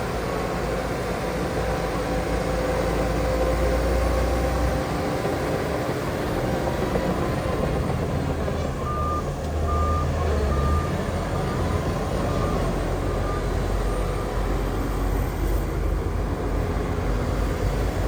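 Diesel engines of heavy earthmoving machines (dump trucks and a bulldozer) running steadily, with a reversing alarm beeping about once a second from about halfway through, fading away after several beeps.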